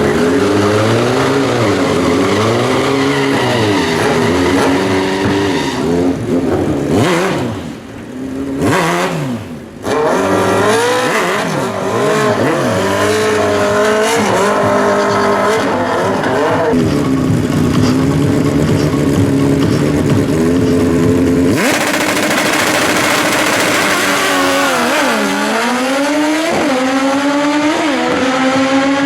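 Drag-racing motorcycle engines revving hard, the pitch rising and falling again and again. Near the end one engine climbs steadily in pitch as it accelerates.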